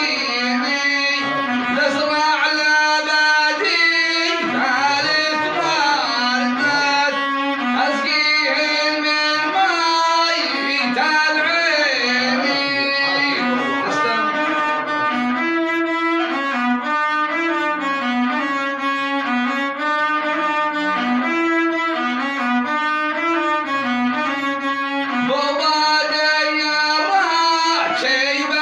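A rababa, the Bedouin bowed spike fiddle, being played: a bowed melody of sliding, ornamented notes.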